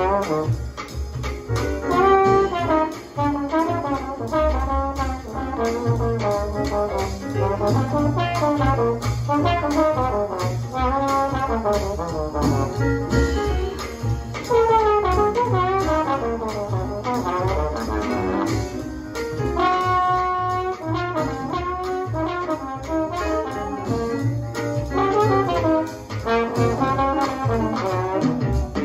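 Instrumental jazz recording with horns playing busy melodic lines over bass and drums.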